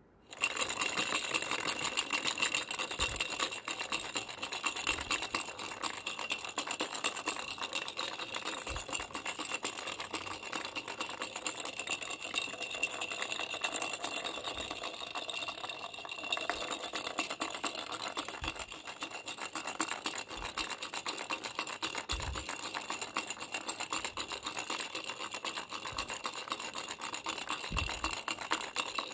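A baby rattle shaken rapidly and without pause, a fast dense rattle with a thin ringing tone running through it. It starts abruptly just after the start, with a few soft low knocks here and there.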